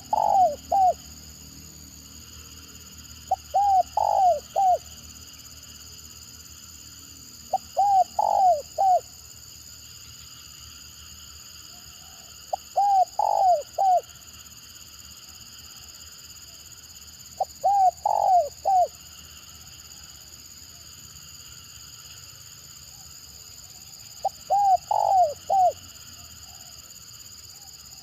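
Spotted dove cooing in short stuttering phrases of three to five quick notes, a phrase every four to five seconds. A steady high-pitched drone runs beneath.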